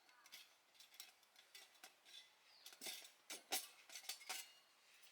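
Irregular light clicks and clinks of small hard objects being handled, with the sharpest taps clustered about three to four seconds in.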